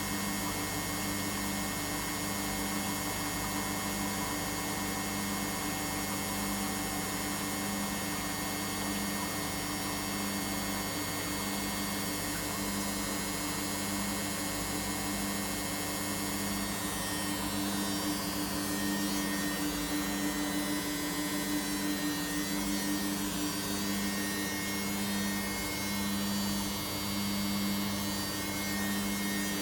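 Samsung washing machine running: a steady motor hum, with a lower tone that swells and fades about once a second, getting a little louder partway through.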